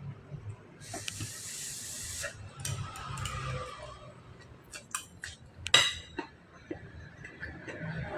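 Dishes and utensils clinking, with a loud ringing clink about six seconds in. There is a short hiss about a second in.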